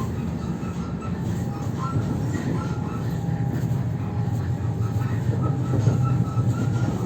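Ivolga (EG2Tv) electric multiple unit running with a steady rumble, its body creaking and squeaking in short, repeated high-pitched squeals throughout.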